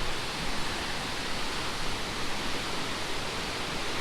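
Steady roar of a large waterfall crashing into its pool, an even rushing noise with no breaks.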